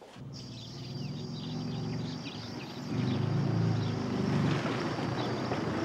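Engine of a vintage open two-seater sports car running as it drives up toward the listener, getting louder about three seconds in, with birds chirping over it.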